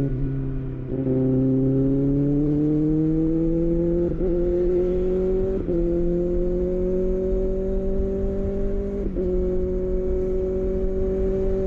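Kawasaki ZX6R inline-four motorcycle engine running under way, its note climbing slowly with brief breaks a few times.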